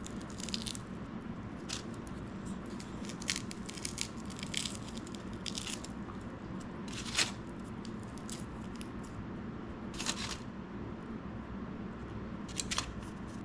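Jindo dog biting and crunching on food, with irregular crunches and tearing sounds over a steady low hum.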